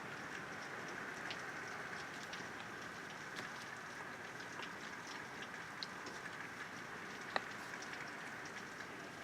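Steady rain falling, with scattered drops ticking on hard surfaces and one sharper tap about seven seconds in.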